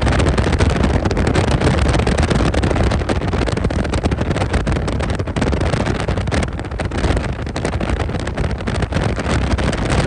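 Strong wind buffeting the microphone: a loud, steady rumble with a rushing hiss over it and no pitched engine note.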